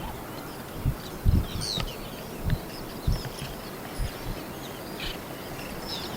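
Many birds calling at once, short chirps and whistles overlapping over a steady outdoor hiss, with several brief low thumps.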